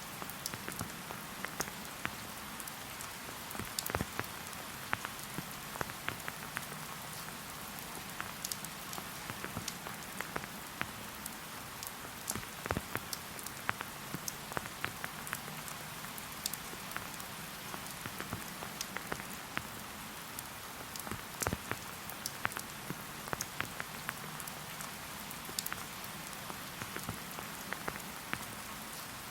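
Steady rain falling in a forest: an even hiss with many separate drops tapping close by at irregular moments throughout.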